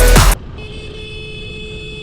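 Electronic background music cuts off suddenly about a third of a second in. A vehicle horn then sounds one long steady note over a low rumble of engine or traffic noise.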